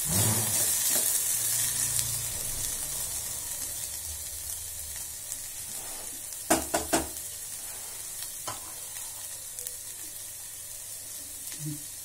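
Chopped snake gourd sizzling in a stainless steel pan on a gas stove while being stirred with a silicone spatula. About halfway through come three quick sharp knocks close together, then a lighter one, as the spatula strikes the pan.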